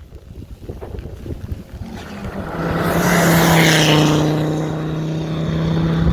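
Rally car engine, quiet rumble at first, then growing loud about two seconds in and holding a steady, unchanging pitch, with a rush of air noise at its loudest.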